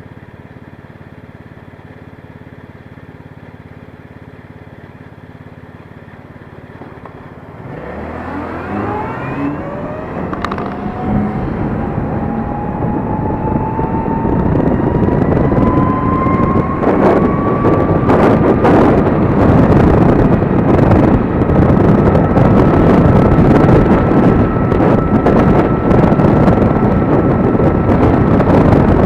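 Gogoro 2 electric scooter pulling away. After several seconds of steady, quiet traffic noise, the motor's whine starts about eight seconds in and rises in pitch as the scooter speeds up, then holds. Wind and road noise builds to a loud rush.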